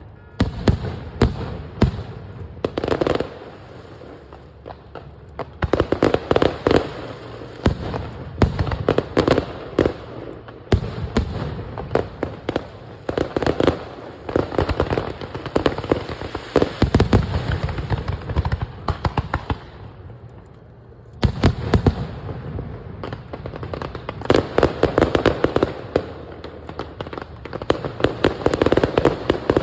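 Fireworks display going off in rapid volleys of bangs and crackles. It comes in waves, with short lulls about four seconds in and again around twenty seconds.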